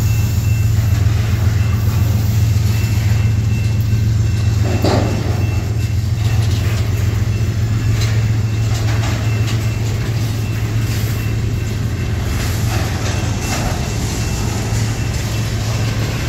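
Empty CSX steel flatcars rolling past on the track: a steady low rumble with scattered clanks and wheel clicks.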